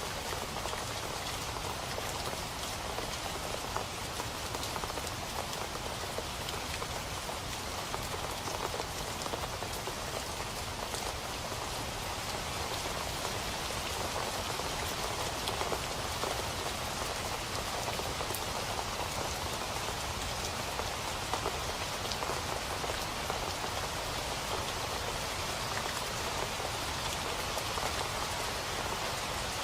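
Steady rain falling on a surface, a continuous hiss full of fine, dense drop patter, with no letting up or build.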